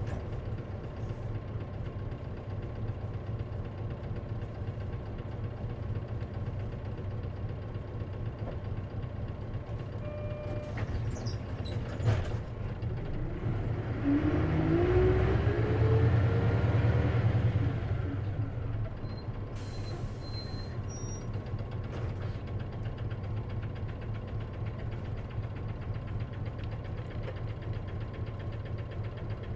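Interior sound of an Isuzu KC-LV380N city bus's diesel engine running steadily, with a single knock about 12 seconds in. From about 14 to 18 seconds it gets louder with a rising whine, as it does when the bus pulls away, then settles back to a steady hum.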